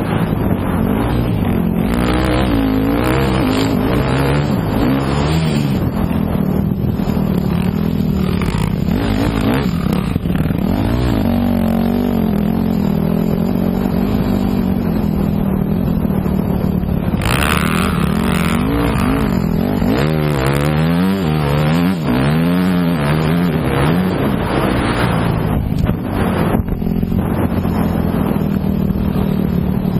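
Motocross bike engine running hard, its pitch rising and falling over and over as the throttle opens and closes and it shifts gears. A brief harsher rasp comes a little past halfway.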